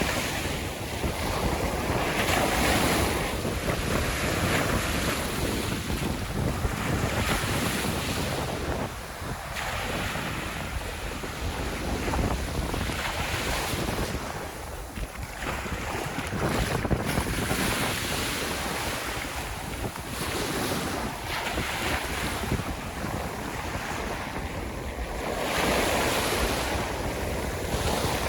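Sea waves breaking and washing up on a sandy shore, swelling and easing every few seconds, with wind buffeting the microphone.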